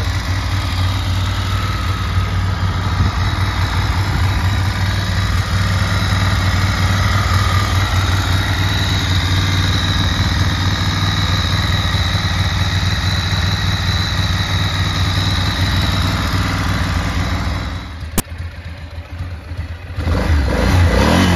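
Ducati Monster S2R 800's fuel-injected, air-cooled L-twin idling steadily. Its steady running breaks off with a sharp click near the end.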